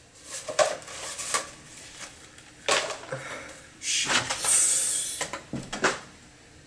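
Household clatter: a string of knocks and bangs like cupboard doors and dishes being handled, with a longer rushing hiss about four seconds in.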